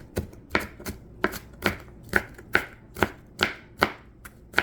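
Knife chopping on a cutting board: a steady run of sharp strokes, about two to three a second.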